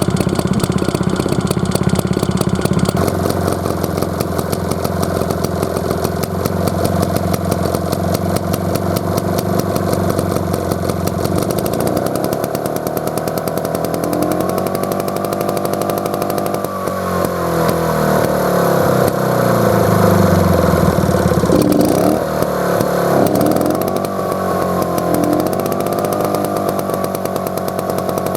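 Tohatsu T56D air-cooled stationary engine running, steady at first, then its speed rising and falling several times in the second half before settling.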